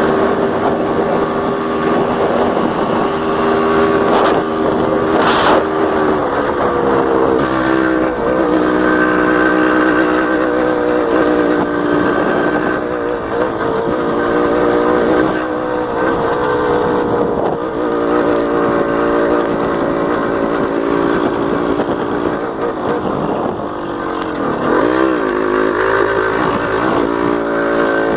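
Yamaha DT 180 two-stroke single-cylinder trail bike engine running under way, its pitch rising and falling repeatedly as the throttle opens and closes. There is one sharp knock about five seconds in.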